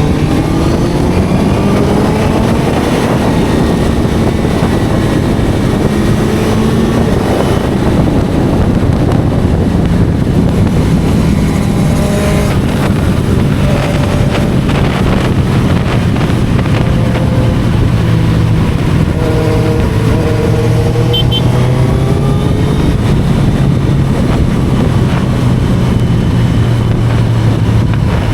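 Inline-four sport motorcycle engine under way: revs rising through the gears in the first few seconds, then running at a steadier note, with a few more rises and falls in revs later on.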